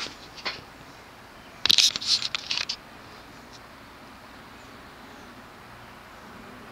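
Vintage 36-inch ceiling fan running on its lowest speed from a 4-speed choke-type wall control, a faint steady hum. About two seconds in, a brief burst of sharp clicking and jingling clatter stands out above it.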